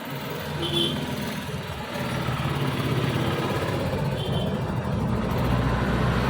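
Street traffic: a motor vehicle's engine running and growing steadily louder, with two brief high tones about a second in and about four seconds in.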